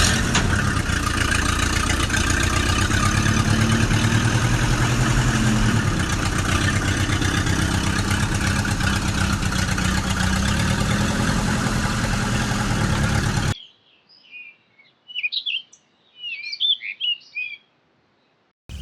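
An engine running steadily with a low rhythmic pulse, which cuts off abruptly about three-quarters of the way through. Brief high bird chirps follow in near quiet.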